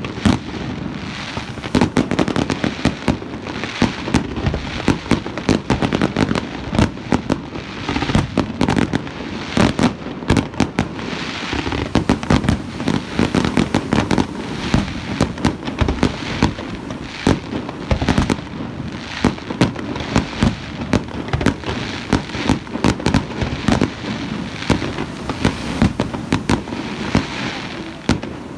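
Fireworks display: a rapid, unbroken run of aerial shell bangs and bursts, easing off near the end.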